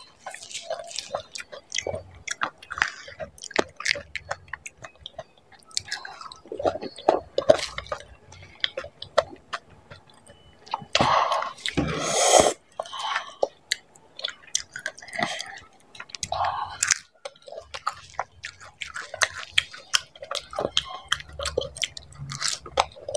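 Chewing and wet squishing of yogurt-filled dahi puri, crisp puri shells with curd and chutney, with crunches and small smacking mouth sounds. About halfway through comes a longer, louder noisy burst.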